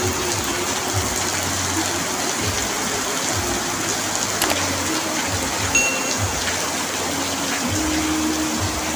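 Heavy rain falling steadily on an asbestos-cement roof, a dense even hiss with a few sharper drop ticks, and a faint low wavering hum underneath.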